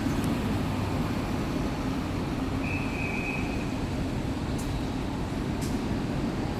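Mitsubishi Fuso Aerostar city bus's diesel engine idling with a steady, rattly rumble. A short high beep sounds about three seconds in, with a couple of faint ticks after it.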